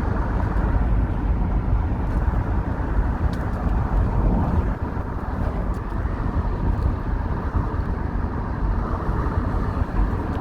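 Steady road and engine noise heard from inside a moving vehicle's cabin: a constant low noise that keeps the same level throughout.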